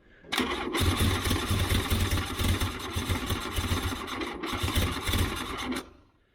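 VW Scirocco race car engine being started and run loudly in three short spells, with brief breaks about half a second in and about four seconds in. It stops about six seconds in.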